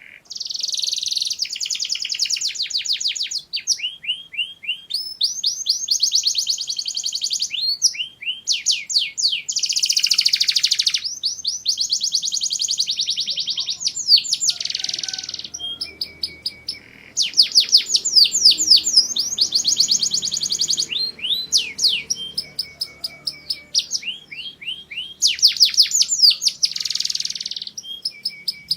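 Domestic canary singing: a long song of rapid trills, each a fast run of repeated high notes lasting a second or two, one trill following another with short breaks.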